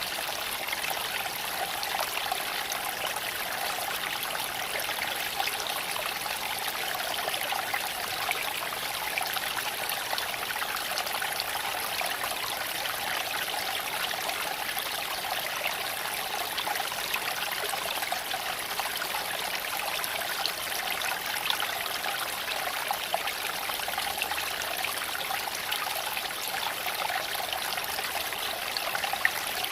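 Creek water flowing and trickling steadily over stones, an even rushing burble without pause.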